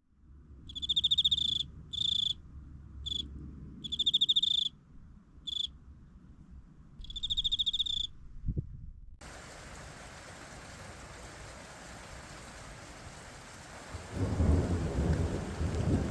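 An insect trills in repeated chirps of about a second each over a faint low rumble. About nine seconds in, steady rain hiss abruptly starts, and near the end a loud, low thunder rumble builds.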